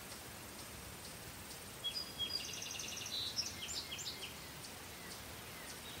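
Rural outdoor ambience: a songbird sings one short phrase of rapid, trilled high notes lasting about two seconds, from about two seconds in. Under it, crickets keep up a steady, faint, high-pitched chirring over a soft background hiss.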